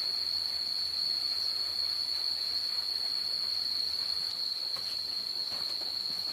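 Insects, crickets or cicadas, holding one steady high-pitched drone without a break, over a faint background hiss.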